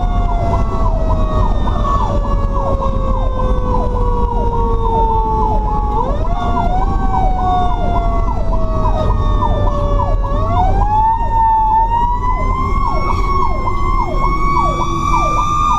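Fire truck sirens running together: an electronic siren yelping in quick falling sweeps about twice a second, and a mechanical Q siren winding slowly down, then spun back up about six seconds in and again about ten seconds in. The truck's engine and road rumble run underneath.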